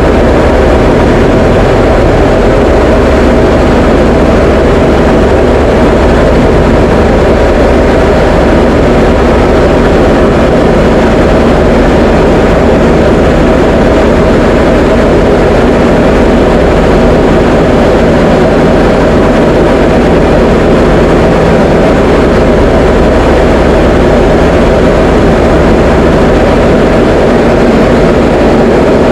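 Diamond DA20 light aircraft in flight: its piston engine and propeller drone steadily and loudly without change in pitch.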